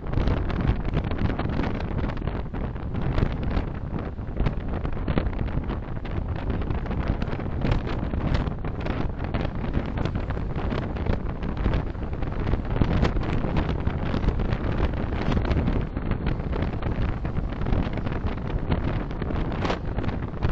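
Steady road and wind noise from a car on the move, picked up by its dashcam: a constant low rumble with no clear engine note.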